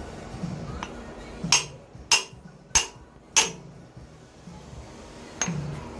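Hammer blows tapping a new pilot bearing into the end of the engine's crankshaft: five sharp metallic strikes at an even pace, about one every 0.6 s, starting about a second and a half in.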